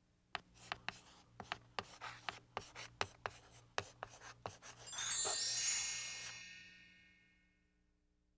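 Sound-effect sting: a run of sharp clicks and scratchy rubbing, about a dozen over four seconds, followed by a bright shimmering chime of many high ringing tones that fades away over about two seconds.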